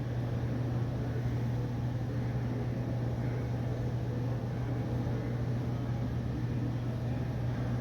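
Steady low hum under a wide, even hiss of room noise, with no sudden sounds.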